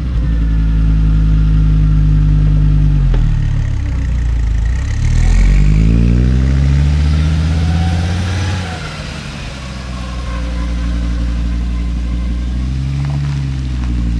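1983 Audi Quattro's turbocharged five-cylinder engine pulling away and accelerating, its pitch climbing, dropping about three seconds in, climbing again, then easing off about halfway through and rising once more near the end.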